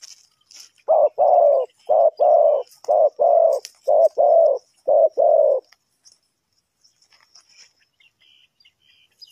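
Spotted dove cooing: five two-part coos about a second apart, each a short note followed by a longer one, stopping about two-thirds of the way through. Faint high chirps of small birds run underneath.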